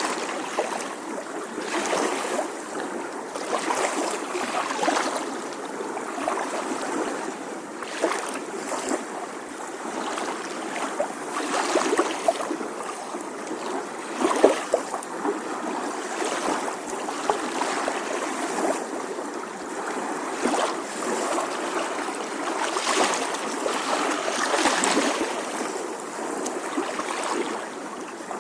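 Small ocean waves lapping gently on the shore: a continuous watery wash with many small, irregular splashes.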